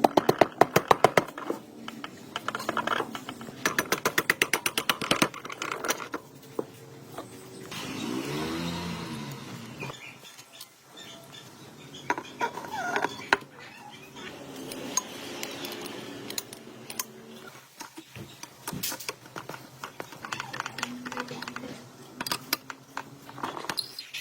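Metal tools and parts clinking and knocking, with two short runs of rapid, evenly spaced clicks.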